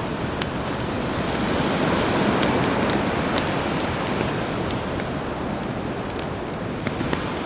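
Sea waves washing ashore, one swell building and easing off over a few seconds, mixed with the crackle of a campfire, sharp snaps scattered throughout.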